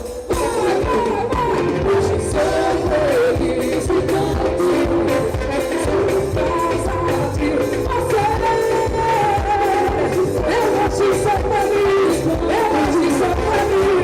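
Loud amplified carnival band music played through a street sound system: a wavering sung melody over a steady beat.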